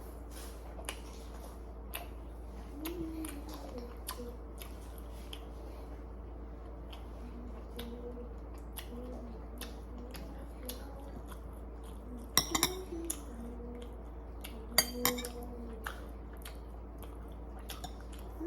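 Eating utensils clicking and clinking against dishes during a meal, with two louder clatters about twelve and fifteen seconds in.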